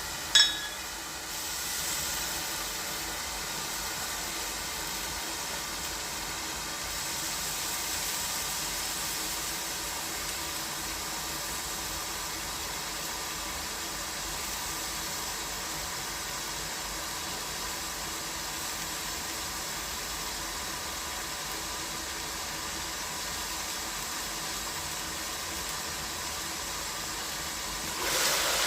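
Chicken cooking in a pan with a steady sizzling hiss, after a sharp clink right at the start.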